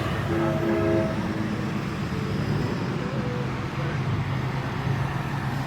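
Steady low vehicle engine and traffic noise, with a short faint horn note about half a second in.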